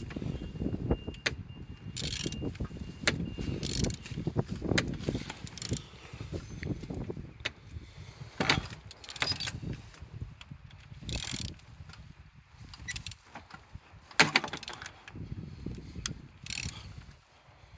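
BMW N47D20A 2.0-litre four-cylinder diesel engine being turned over by hand: irregular mechanical clicks and knocks over a low churning as the engine rotates. It turns freely, which the seller takes as a sign the engine is good.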